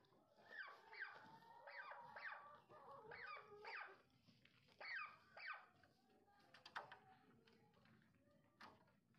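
Faint turkeys calling: a run of short yelps, each falling in pitch, several a second at first and thinning out after about six seconds.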